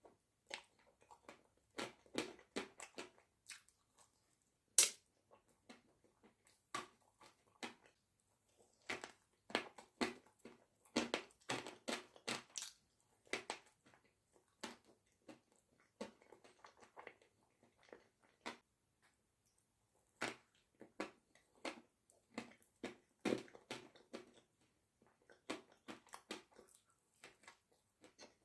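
Close-up eating sounds of a cream-filled Nutella pastry: bites and wet, sticky chewing in irregular clusters, with a sharp crackle about five seconds in.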